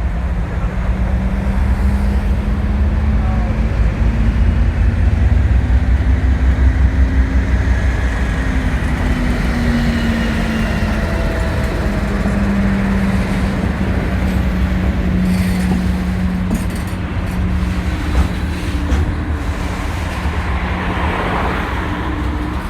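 Heavy mainline diesel locomotive engine working under power: a loud, steady low drone with a humming tone that drifts slightly in pitch, loudest about six seconds in and easing off a little later.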